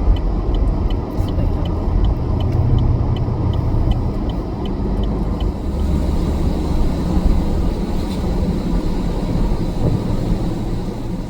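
Ford Falcon hardtop car engines running loudly and steadily, with a regular high tick about three times a second through the first half.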